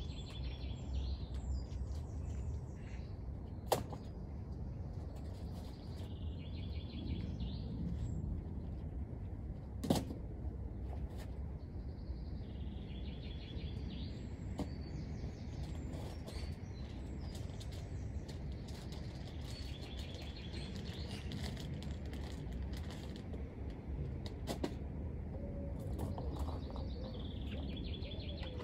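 Small birds chirping and trilling in repeated short phrases over a steady low rumble, with two sharp knocks, one about four seconds in and one about ten seconds in.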